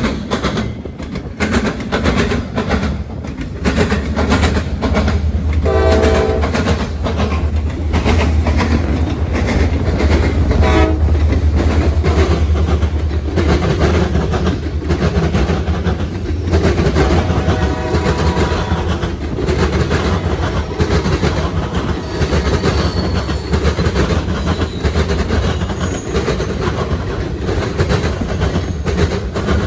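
Freight trains pounding over railroad diamonds: a rapid, uneven clatter of wheels slamming across the crossing gaps, over the deep steady rumble of diesel locomotives. Brief horn-like tones sound around 6 and 11 seconds in, and again around 17 to 19 seconds.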